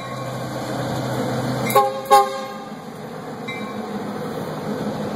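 Canadian National diesel freight locomotive passing close by, its engine giving a steady low hum. About two seconds in it sounds two short horn blasts, several notes at once. After that comes the even rumble of the train rolling past.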